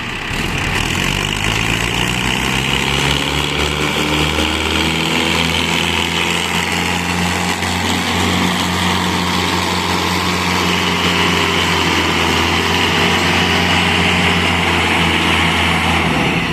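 Mahindra tractor's diesel engine revving up over the first few seconds, then running steadily at the higher speed.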